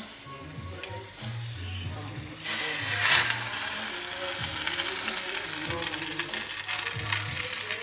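Meatballs and diced potatoes sizzling in tomato sauce in a hot pan. The sizzle turns loud and hissing about two and a half seconds in and keeps going, over background music with steady low notes.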